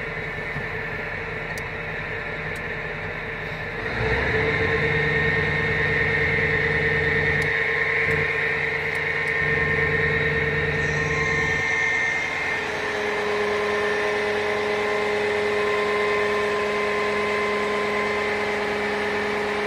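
Fire truck engine running steadily with a constant high whine. The sound gets louder about four seconds in and holds there.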